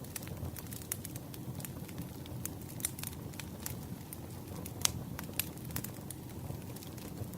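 Campfire crackling: burning wood with a steady low rumble and frequent sharp pops, the loudest pop a little under five seconds in.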